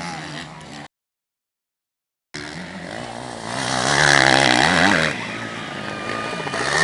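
Motocross bike engines running and revving, their pitch rising and falling as they go through the gears, with the sound cutting out completely for about a second and a half near the start. When it returns it grows louder, as if bikes pass close by.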